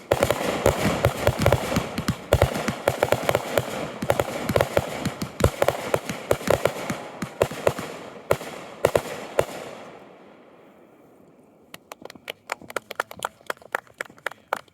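Fireworks going off: a dense, rapid string of sharp bangs and crackles that dies away about ten seconds in. Scattered lighter pops follow near the end.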